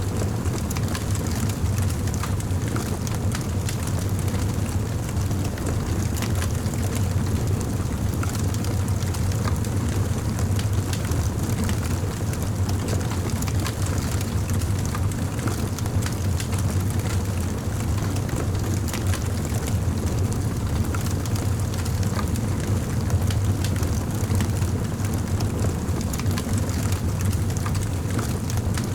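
Campfire burning: a steady low rumble under many small crackles and pops.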